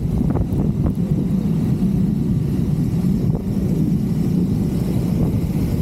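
Triumph Scrambler 400 X's single-cylinder engine running under way at speed, its pitch wavering slightly up and down, steady and loud.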